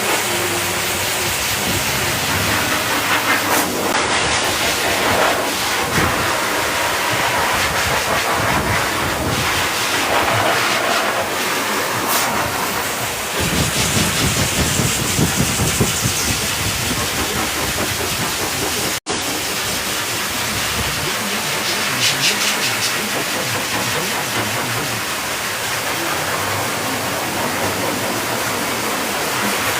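Dog grooming dryer blowing air: a loud, steady rushing hiss that shifts a little in tone as the airflow moves, cutting out for an instant about two-thirds of the way through.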